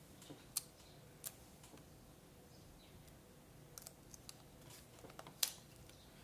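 Scattered sharp clicks and taps from scrapbooking handwork, as paper and small craft tools are handled. The loudest come about half a second in and near the end.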